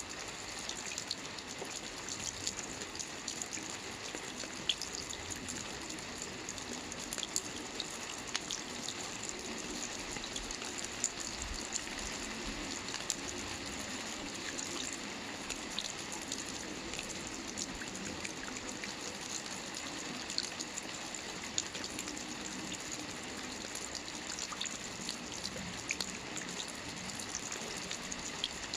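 Gentle light rain falling steadily without thunder: a soft, even hiss dotted with many small drop ticks.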